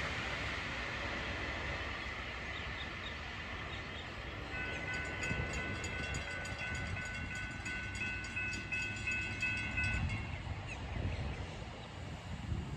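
Train rumbling along the track, with a steady ringing and quick repeated ticking from a few seconds in until near the end.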